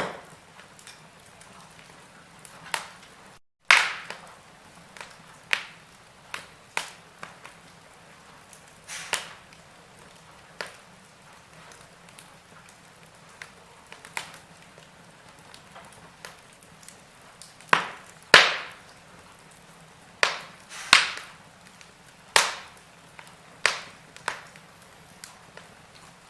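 Wood fire burning in a fireplace: irregular sharp crackles and pops over a faint steady hiss, a second or two apart, with the loudest pops in the second half.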